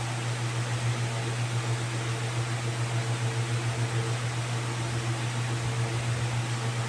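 Steady low machine hum that pulses a few times a second, over an even hiss.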